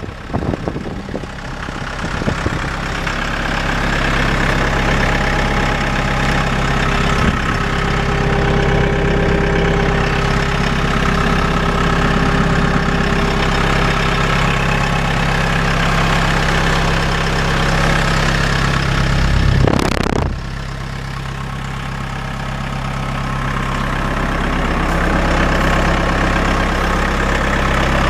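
Diesel engine of a 2017 Mahindra 3540 compact tractor running steadily near idle, growing a little louder over the first few seconds. About twenty seconds in there is a brief knock, after which it runs quieter and slowly comes back up.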